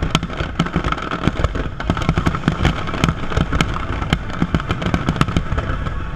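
Aerial firework shells bursting in a rapid, irregular barrage, several loud bangs a second over a continuous low rumble.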